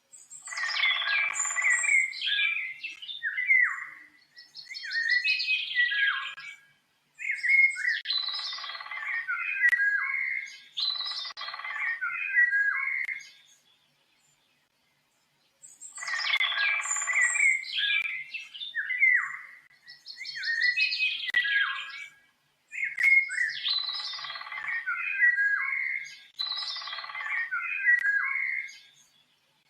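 Songbird singing: rapid chirping, warbling phrases in bursts of a few seconds, separated by short silences. The same run of phrases plays twice, as a looped recording.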